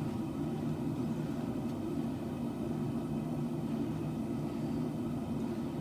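Gas forge burners running with a steady, even rumble.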